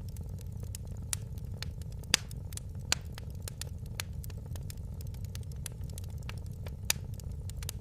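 Wood fire crackling and popping, with sharp irregular snaps over a steady low rumble of the flames; the loudest pops come about two seconds in, near three seconds and near seven seconds.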